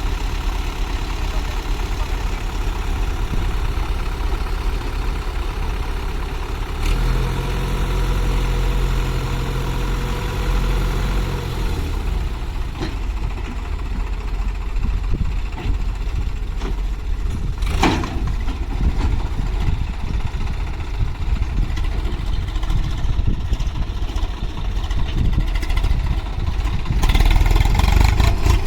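Heavy diesel vehicle engine running, holding a steady note from about seven to twelve seconds in, then running unevenly, with one brief sharp sound about eighteen seconds in and louder running near the end.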